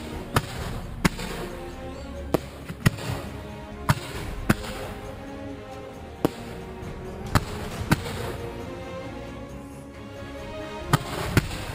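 Fireworks going off with about a dozen sharp bangs at irregular intervals, roughly one a second, over music playing throughout.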